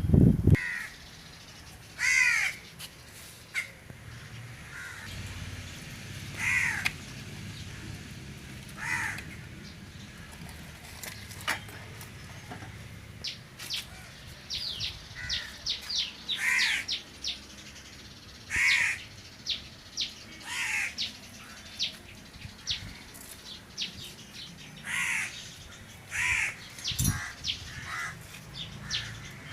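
Crows cawing outdoors, single harsh caws every few seconds throughout. A quick run of high chirps from a smaller bird comes about halfway through, and a short low thump sounds right at the start.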